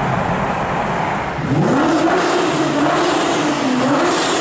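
Car engine running, then revving hard about a second and a half in, its pitch climbing and then rising and falling with the throttle.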